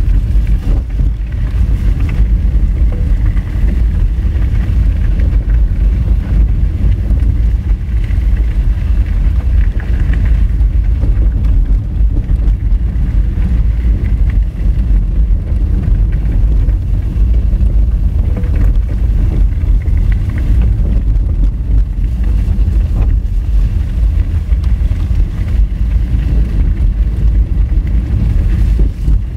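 Honda Fit driving on a rough, rocky gravel road: a loud, steady low rumble of tyres on loose stone and the car's running gear, with some wind noise on the microphone.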